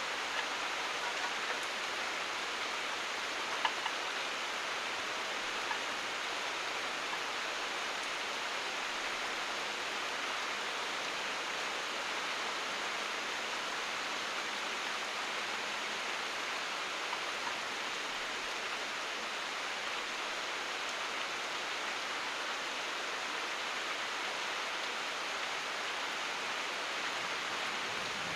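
Steady rain falling, an even hiss with a few sharper drop ticks in the first few seconds. No thunder is heard.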